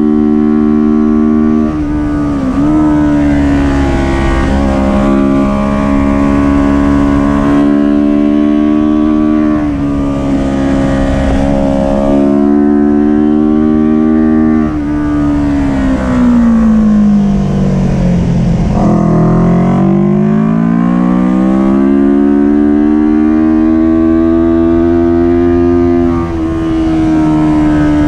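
Kawasaki Ninja 400 parallel-twin engine running hard at high revs, its pitch stepping abruptly at each gear change. About halfway through the revs fall steadily for a few seconds as the bike slows, then climb again as it accelerates.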